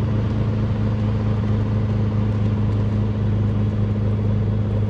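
Beechcraft Bonanza's six-cylinder piston engine and propeller running steadily on the ground, warming the oil up to temperature before an oil change.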